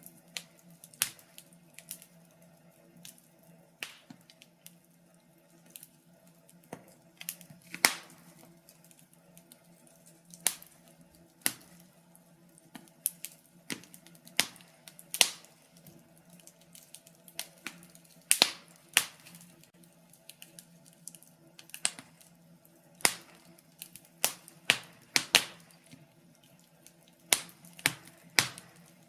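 Wood fire crackling: irregular sharp pops and snaps, some loud, many faint, over a faint steady hum.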